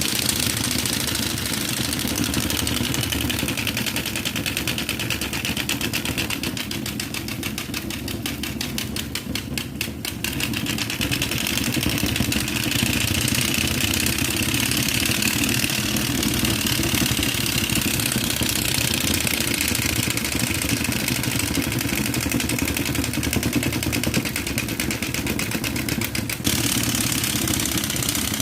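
Royal Enfield motorcycle engine running steadily with an even pulsing beat. It eases off slightly about eight seconds in, then picks up again.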